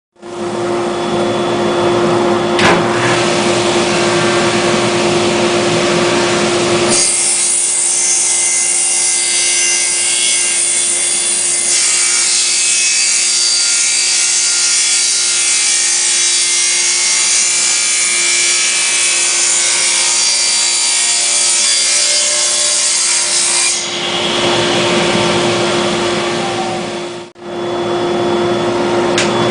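PC liquid-cooling pump running with water pouring and splashing through a waterfall reservoir: a steady rush of water over a constant hum. The rush changes character about seven seconds in and again near the end, with a brief dip just before the end.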